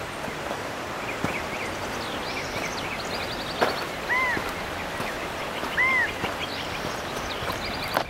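Wild birds calling: a short, fast trill of high notes repeated about every four seconds, and two loud arched whistled notes about four and six seconds in. Underneath is a steady rushing noise with footsteps on a dirt trail.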